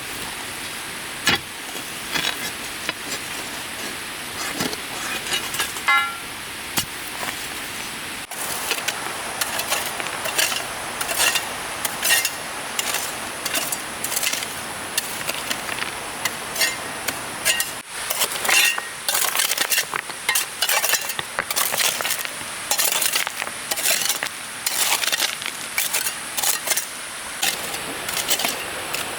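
Rocks knocking and clinking against each other as they are handled and stacked, a few at first and then in quick, irregular runs, over a steady hiss.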